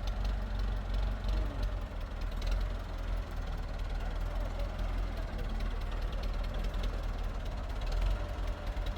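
A steady low engine rumble, like a motor vehicle's engine running.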